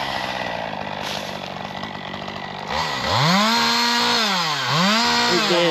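Two-stroke chainsaw idling, then revved hard to full throttle about three seconds in, with the throttle let off and opened again twice near the end.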